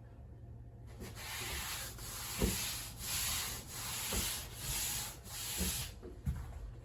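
Soba dough being worked by hand on a wooden board: a series of four or five long rubbing strokes, with a soft knock at the end of some of them.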